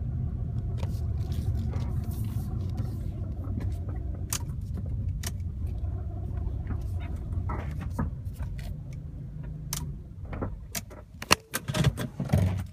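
1997 Honda Accord engine idling steadily with its headlights off. It has a bad alternator, and the car shuts down when the headlights are turned on. Near the end the steady running sound falls away and a few sharp clicks and knocks follow.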